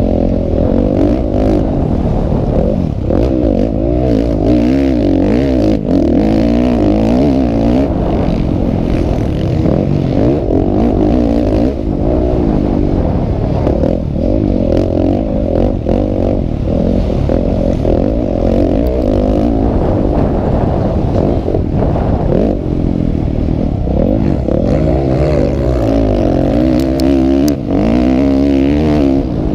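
Several motocross bikes' engines revving and shifting at once, their pitches rising and falling and overlapping in a continuous loud drone.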